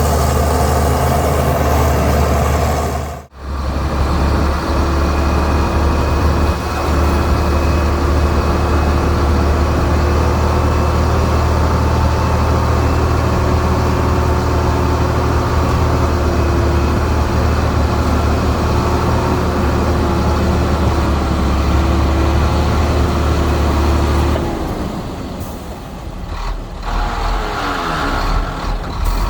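Diesel engine of heavy earthmoving machinery running steadily, with a brief dropout about three seconds in. Near the end the deep engine drone falls away and several falling whines follow.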